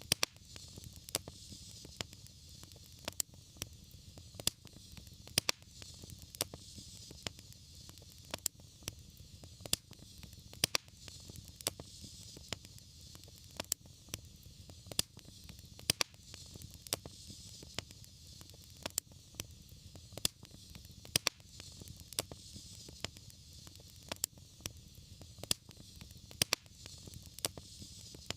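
Wood fire burning in a fireplace, crackling with frequent sharp, irregular pops over a steady low rumble and hiss.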